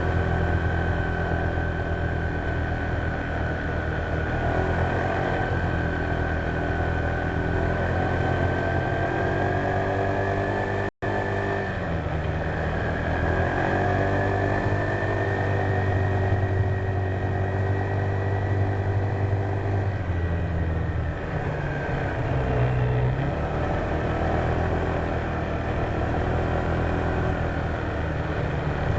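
Honda PCX150 scooter's single-cylinder engine running under way, its pitch slowly rising and then falling off after about twenty seconds, with a thin high whine over it. The sound cuts out for an instant about eleven seconds in.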